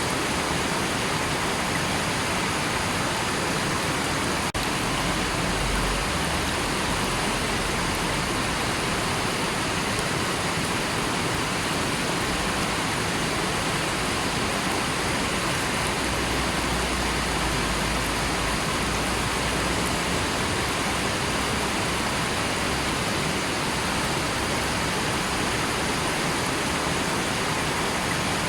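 River water rushing steadily, an even roar of flowing water. A faint click about four and a half seconds in.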